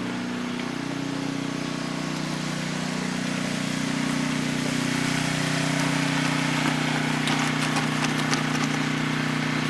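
An engine running steadily at an even speed, with some light clicks and knocks in the second half.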